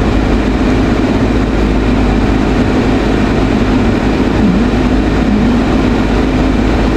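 Steady car noise heard inside the cabin: an even, unbroken rumble with hiss underneath.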